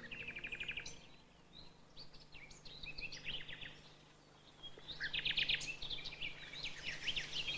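Nightingale singing: phrases of fast repeated notes and quick trills, broken by short pauses.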